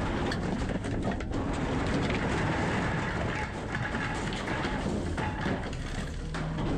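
Garbage truck working: a steady low rumble under dense clattering and rattling.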